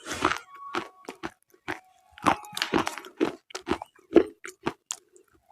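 Thick black slate bars being bitten and chewed: an irregular run of sharp, crisp crunches, several a second, some loud and some faint, with short pauses between.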